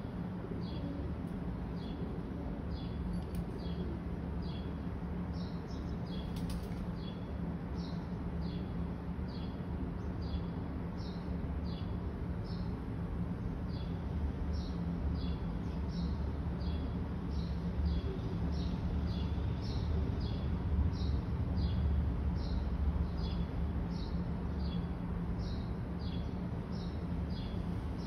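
Small bird chirping over and over, short high notes about one to two a second, over a steady low hum.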